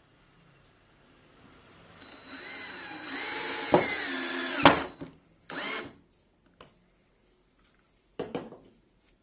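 Power drill running, its pitch bending as it builds up over a few seconds, then stopping. Two short bursts of the drill follow later.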